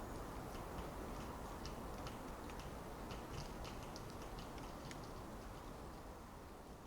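Winter forest ambience: a steady wind-like rush through the trees, with scattered light high ticks, beginning to fade out near the end.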